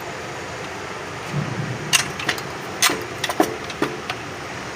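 A few sharp clicks and knocks of parts being handled over a steady background hum, four of them in the second half, after a short dull thud.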